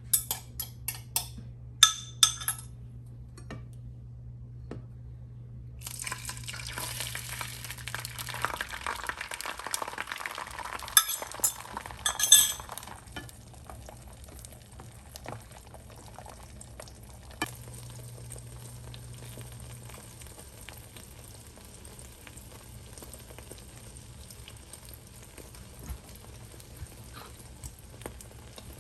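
A few sharp clinks of utensils against dishes. Then, about six seconds in, food starts frying in a pan with a loud sizzle, with more clinks a few seconds later. The sizzle settles after about thirteen seconds into a quieter, steady sizzle with small crackles.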